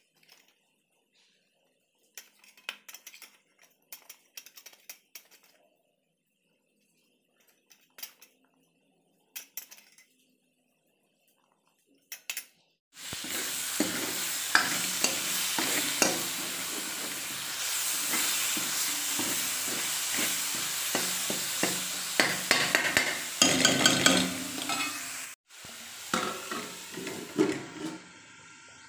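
Scattered light clinks of utensils, then from about halfway in chopped tomatoes frying in hot oil in a kadhai: a loud, steady sizzle with a metal spoon clinking and scraping as it stirs. It cuts off suddenly a few seconds before the end, leaving quieter clinks of pan and lid.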